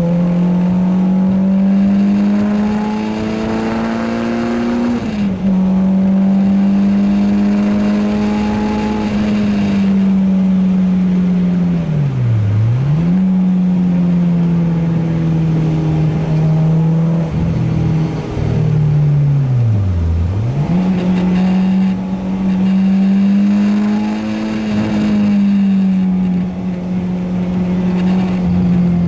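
Renault Clio 2 RS's 2.0-litre four-cylinder engine running hard at high revs on track. The pitch drops suddenly at upshifts, just before the start and about five seconds in. Twice, about 12 and 20 seconds in, the revs dip sharply and climb straight back.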